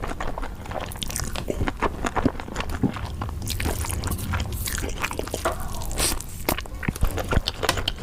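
Close-miked mukbang eating sounds: a person biting and chewing food, with many short crunchy clicks.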